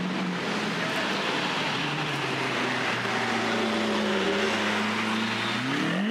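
Lamborghini Aventador's V12 engine running steadily as the car rolls slowly past, with a brief rev that rises and falls near the end.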